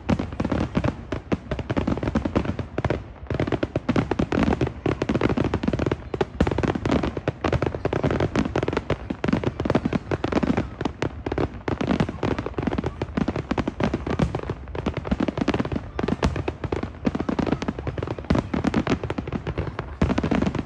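Fireworks going off in a dense, unbroken stream of rapid, irregular bangs and crackles.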